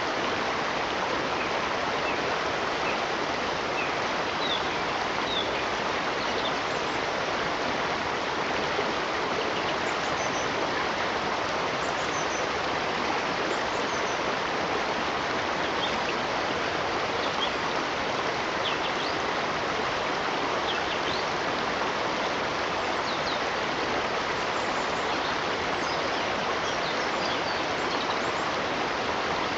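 Stream water flowing steadily, with a few short, faint high chirps scattered through it.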